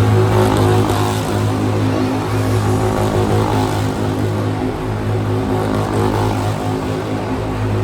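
An engine running steadily at an even speed: a constant low hum with several steady overtones.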